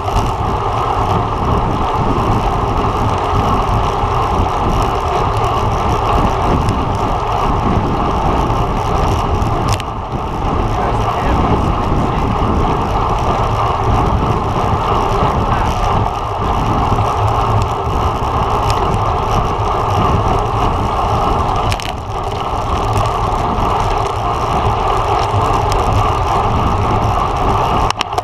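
Wind rushing over a camera microphone on a road bike ridden at racing speed: a loud, steady rush that dips briefly about ten seconds in and again about twenty-two seconds in.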